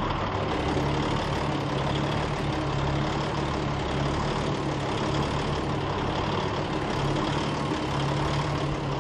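Large rally truck's diesel engine idling steadily, a constant low hum.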